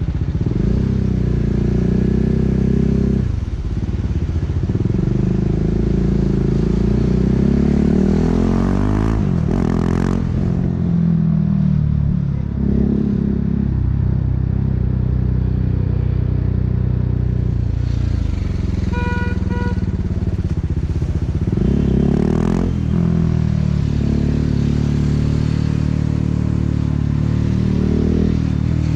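BMW G 310 R's single-cylinder engine through an Akrapovič racing exhaust, its pitch climbing and dropping again and again as the bike pulls away, shifts and slows. A short run of high beeps comes about two-thirds of the way in.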